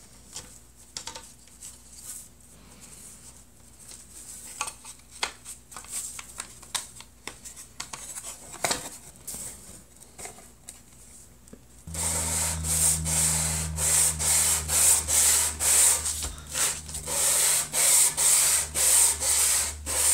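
Wooden case pieces being rubbed and handled, with light taps and scraping strokes. About twelve seconds in, a small electric motor starts with a steady low hum, and rhythmic back-and-forth scrubbing strokes run over it, about two a second, as sawdust is cleaned off the wood.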